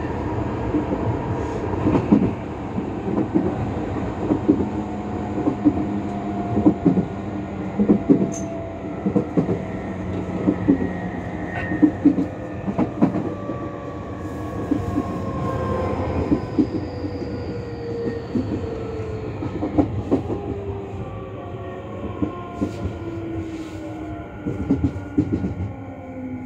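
A commuter electric train heard from inside a carriage while running. The motor whine falls slowly in pitch as the train slows for a station, over a steady rumble and the wheels clicking over rail joints.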